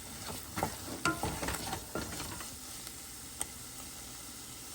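Spatula stirring and scraping onion-tomato masala in a frying pan over the heat, with a light sizzle of oil. The stirring strokes come in quick knocks and scrapes, then stop about halfway, leaving the quiet steady sizzle.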